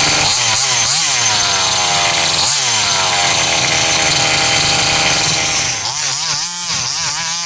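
Rovan 30.5cc two-stroke petrol engine of a 1/5-scale Baja 5B RC buggy being revved in throttle blips. The pitch jumps up and falls slowly back, twice early on, then several quick blips near the end.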